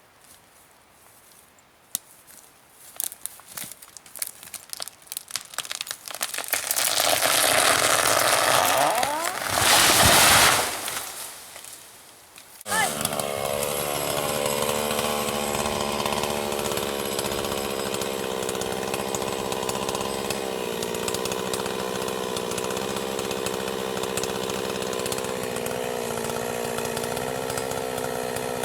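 Scattered cracks and crackling build into a loud rushing noise lasting a few seconds. About thirteen seconds in, a chainsaw cuts in abruptly and runs steadily at an even pitch.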